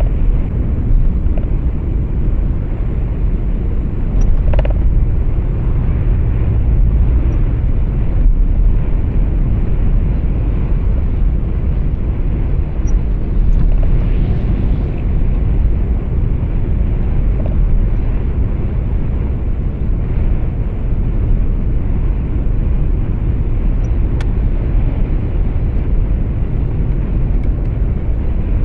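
Steady low rumble of road and engine noise heard from inside a moving truck's cab.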